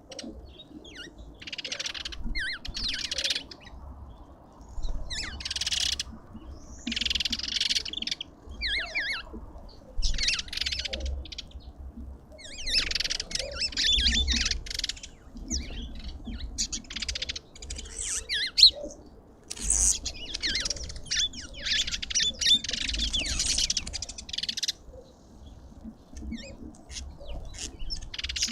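Small birds chirping and twittering in quick, repeated bursts, with short pauses between bursts.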